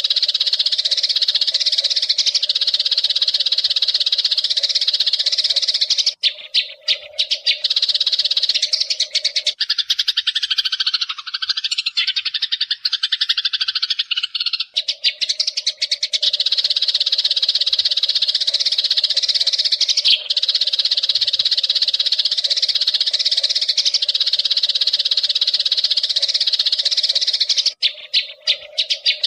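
Eurasian tree sparrows chirping in a dense, continuous chatter, a birdsong masteran recording for training songbirds. About ten seconds in, the chatter gives way for roughly five seconds to a lower, wavering call before it resumes.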